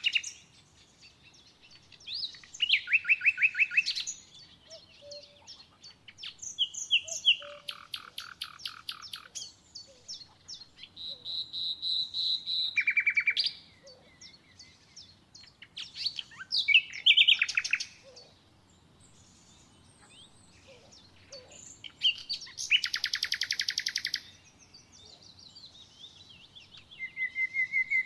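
A songbird singing, about seven short phrases of rapid trilled notes, each a second or two long, with pauses of a few seconds between them.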